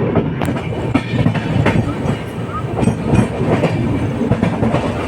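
Sampoorna Kranti Express running through a station without stopping: a steady rumble with the wheels clattering irregularly over the rail joints.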